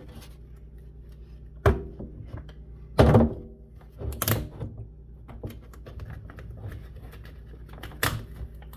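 A few dull knocks and thumps as a skateboard deck is handled while its griptape is peeled off by hand. The loudest comes about three seconds in, with a sharp one just before it, a smaller one after, and another near the end.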